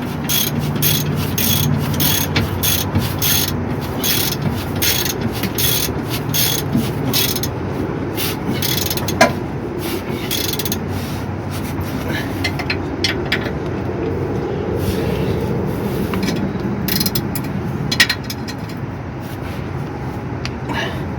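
Hand ratchet wrench clicking as it turns a shock mounting bolt, a quick even run of clicks for the first several seconds, then sparser clicks. Two sharper knocks of metal on metal stand out, one about nine seconds in and one near the end.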